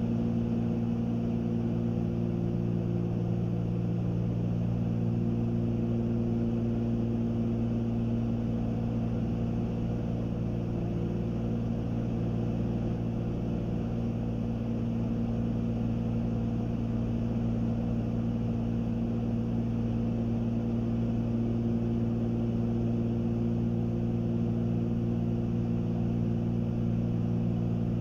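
Cabin drone of a Cessna 310Q twin's two piston engines and propellers in steady cruise: a constant low hum with several steady tones, some of which fade for a few seconds midway and then return.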